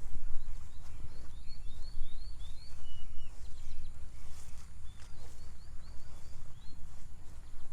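A bird singing two quick runs of short rising notes, the first about half a second in and the second about five seconds in. Underneath is a steady low rumble, with a few soft knocks like footsteps.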